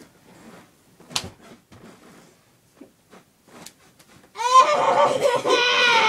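Faint rustling and small clicks, with one sharp click about a second in. Then, a little past four seconds, a girl's loud, long, high-pitched vocal cry, held on one pitch.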